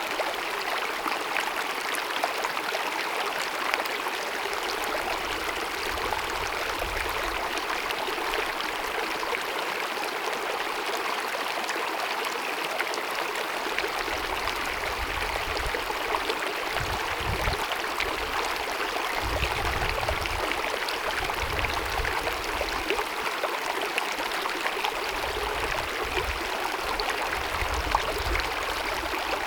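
Small mountain meadow stream babbling and splashing over rocks, a steady rush of water with fine trickling detail. A low rumble comes and goes beneath it in the second half.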